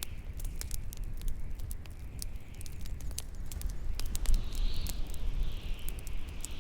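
Bonfire crackling with frequent sharp pops at irregular intervals, over a low rumble of wind and a high howling whistle that swells and fades.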